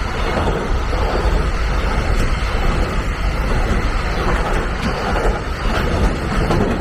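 Train passing close by: a steady, loud rumble of wheels on rail that begins to die away right at the end.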